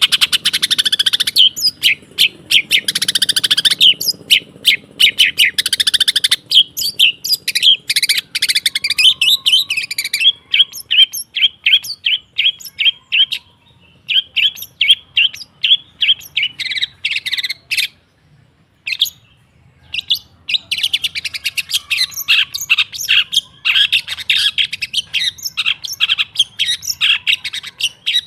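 Long-tailed shrike calling in rapid runs of short, sharp chattering notes, with a brief pause a little past the middle.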